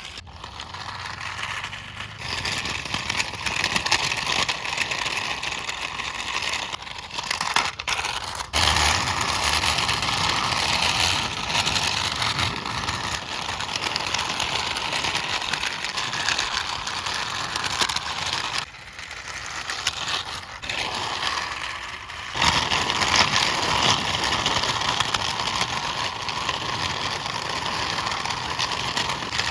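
Steady, rough engine-like running noise as a toy CNG auto rickshaw is driven by hand. It drops away briefly about two-thirds of the way through, then comes back louder.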